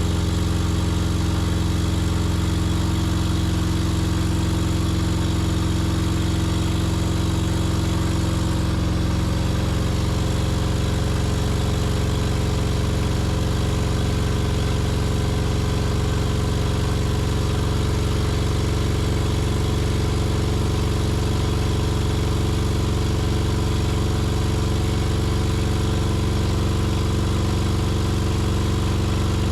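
Honda K24A2 2.4-litre inline-four running steadily at a high idle of around 3,000 rpm on its first start after a new serpentine belt and water pump housing, with the idle not yet tuned. The tone shifts slightly about nine seconds in.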